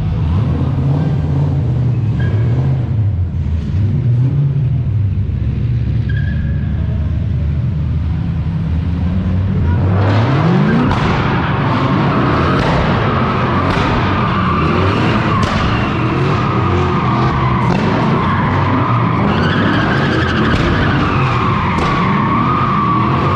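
V8 drift car engine running at low revs with small blips of the throttle. About ten seconds in, it revs up sharply and the car drifts, engine held high with tyres squealing and skidding.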